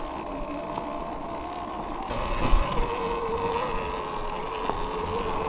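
Surron Ultra Bee electric dirt bike's motor whining as it is ridden slowly on a dirt trail, the whine stepping down in pitch about three seconds in. Rattling trail noise runs underneath, with one knock about two and a half seconds in.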